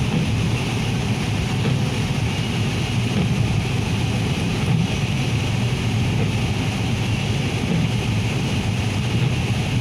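Steady road noise inside a moving car on a rainy highway: engine and tyres on wet pavement make an even low rumble with a faint hiss above it.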